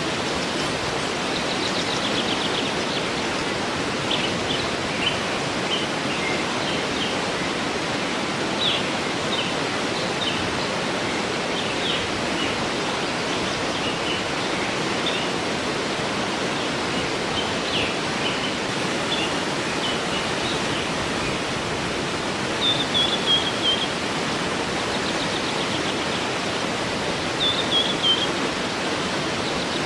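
Steady rush of a waterfall, with small birds chirping over it throughout and two short falling trilled phrases in the second half.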